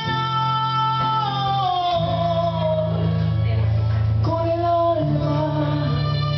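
Singing over strummed acoustic guitar. A long held note slides downward, and a new sung phrase begins about four seconds in.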